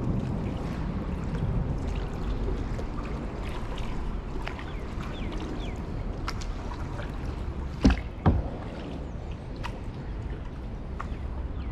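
Kayak paddling: paddle strokes and water moving along the hull, with scattered small clicks. Two sharp knocks come a moment apart a little past the middle.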